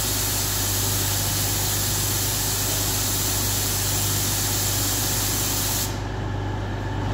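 Windscreen washer jets spraying steadily on a Class 180 diesel train's windscreen, then stopping sharply about six seconds in. Under it, the train's diesel engine idles with a steady low hum.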